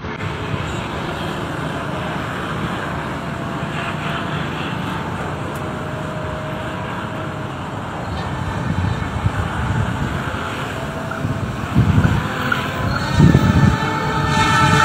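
Distant diesel-hauled passenger train approaching along the track, a steady low rumble that grows somewhat louder over the last several seconds, with a few low surges near the end.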